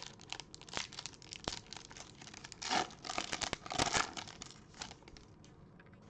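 Wrapper of a pack of baseball cards being torn open and crinkled by hand, a run of crackles with a couple of louder rips about three to four seconds in.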